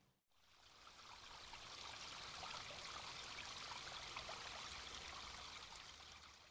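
Small creek trickling and flowing through gaps in its ice near a beaver dam, faint and steady. It swells in during the first second and fades out near the end.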